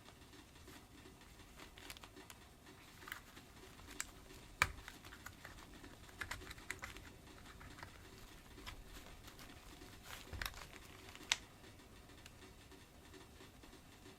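Scattered light clicks and taps of vacuum cleaner parts being handled during disassembly to replace the rotating-brush motor, with two sharper knocks, one about a third of the way in and one near the end.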